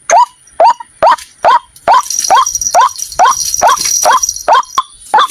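White-breasted waterhen calling: short, sharp, hooked notes repeated evenly at about two to three a second. From about two seconds in until near the end, a steady hiss with a thin high tone sits behind the calls.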